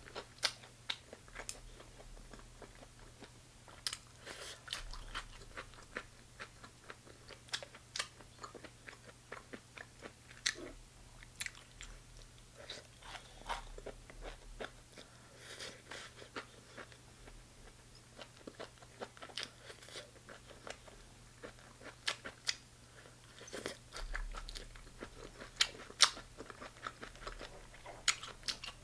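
Close-mic chewing of chicken gizzards: irregular crunching and sharp mouth clicks as the firm meat is bitten and chewed, over a faint steady low hum.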